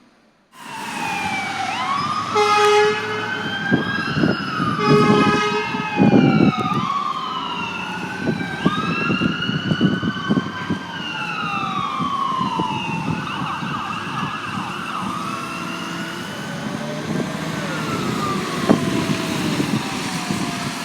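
Fire apparatus sirens wailing together, several sirens sweeping up and down in pitch and overlapping, starting about half a second in. Two short steady horn blasts sound a few seconds in, over the low rumble of the trucks' engines.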